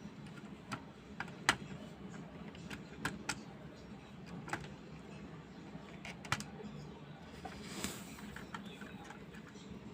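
Plastic building bricks being handled and snapped together: irregular small clicks and taps, a dozen or so, over a steady low hum.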